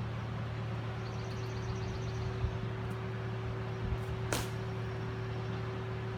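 A steady low engine hum, with a single sharp swish about four seconds in.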